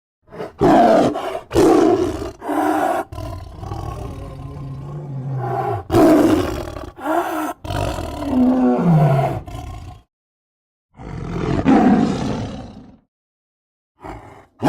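Big cat roaring: several short roars in quick succession, then a longer growling roar that falls in pitch. After a brief pause comes one more roar.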